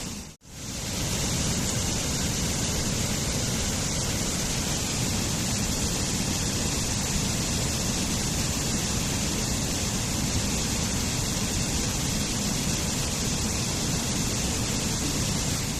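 A waterfall rushing steadily. It cuts out briefly about half a second in and fades back up.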